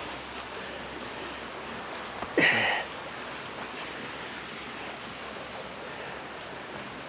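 Steady rushing of creek water. About two and a half seconds in, a brief loud sound with a falling pitch cuts through once.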